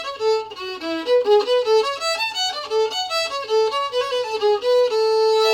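Solo fiddle playing a quick run of single bowed notes, settling on a held note near the end.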